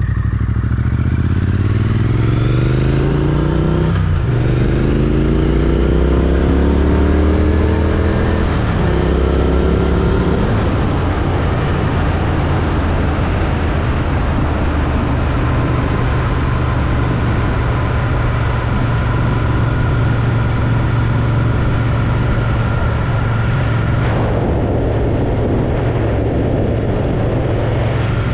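Triumph Street Twin's 900 cc parallel-twin engine, stock exhaust, accelerating through the gears: its pitch rises, breaks at upshifts about four and eight seconds in, and climbs again. Then it settles into a steady cruise under wind rush on the helmet-mounted microphone.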